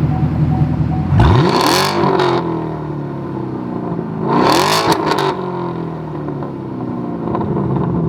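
Chevrolet Camaro SS V8 with a straight-piped exhaust (muffler delete and secondary catalytic converters cut off) idling, then revved twice in quick blips, the pitch rising and falling back each time. It burbles as the revs drop.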